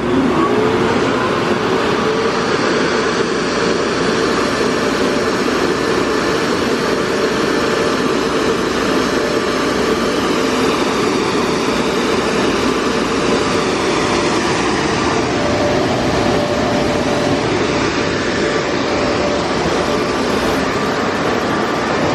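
Superior car wash dryer blowers running at full power: a loud, steady rush of air, with a tone rising just at the start as they spin up.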